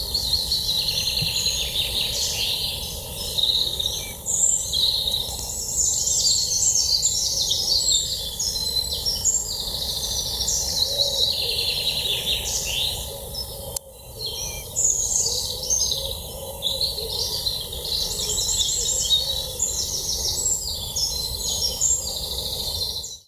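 Many birds singing and chirping at once, quick overlapping trills and chirps, over a steady low background rumble. It breaks off briefly about two-thirds of the way through and stops abruptly at the end.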